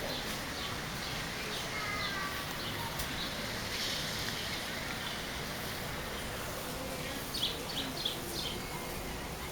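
Steady rain falling, an even hiss throughout, with a few short high chirps now and then, most of them near the end.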